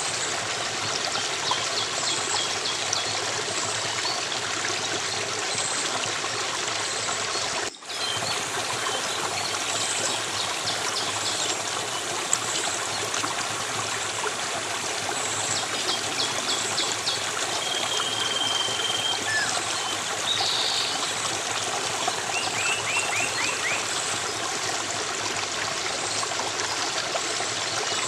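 Stream water running and trickling steadily, with faint, brief bird chirps and small trills over it. The sound drops out for an instant about eight seconds in.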